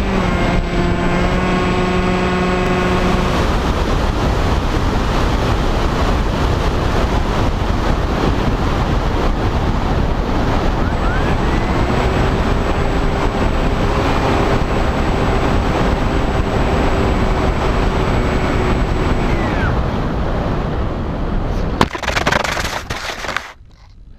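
Air rushing past a camera mounted on a Bixler 2 electric RC plane. The plane's pusher motor and propeller whine steadily for a few seconds at the start and again through the middle, the pitch gliding up as it spools up and back down as it cuts. Near the end comes a sharp knock and a couple of seconds of rough noise, then the rushing drops away.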